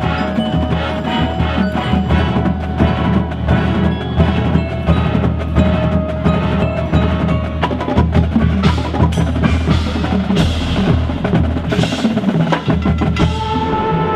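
High school marching band playing a percussion-heavy passage: rapid drum strokes under bell-like struck tones, with several sharp crashes in the second half.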